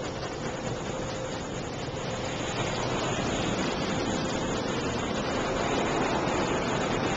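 Automatic car wash working over the car, heard from inside the cabin: a steady rushing noise of water and washing machinery on the bodywork, growing a little louder about two and a half seconds in.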